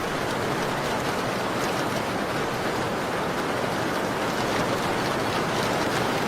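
Steady rain falling on a window: a dense, even hiss with a few faint ticks.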